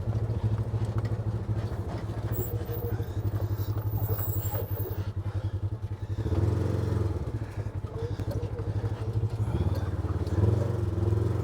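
A vehicle engine running steadily with a rapid low pulsing, picking up revs briefly about six seconds in and again near the end.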